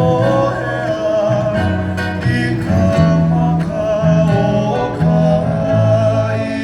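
Live Hawaiian music, played by plucked string instruments: a sustained, wavering melody line over a bass line that steps from note to note.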